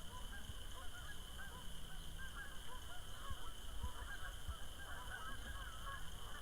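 A flock of geese honking, many short overlapping calls throughout, over a low rumble.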